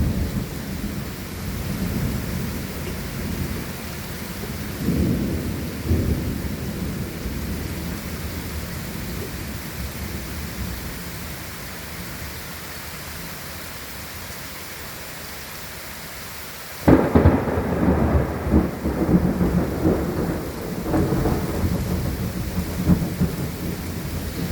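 Thunder rumbling over steady rain, dying down for several seconds, then a sudden loud thunderclap about two-thirds of the way through that rolls on in uneven waves.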